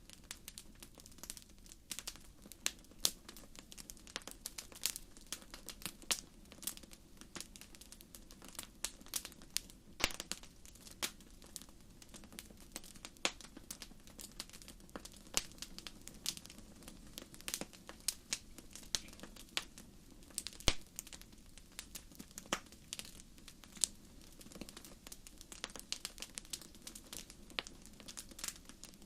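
Wood fire crackling, with irregular sharp pops and snaps over a steady low rush.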